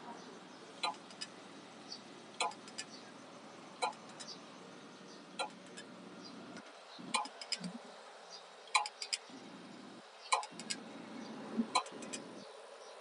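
Toshiba hard disk drive clicking: a sharp click about every one and a half seconds, each often followed by a few lighter ticks, over a faint steady hiss.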